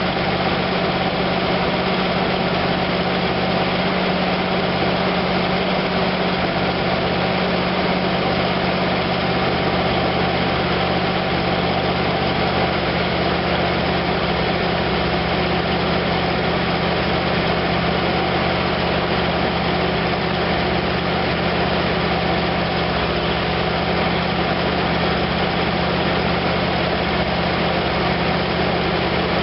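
Freshly rebuilt 1956 DeSoto Seville V8 running steadily at a held fast idle during its first-start break-in of the new cam and lifters.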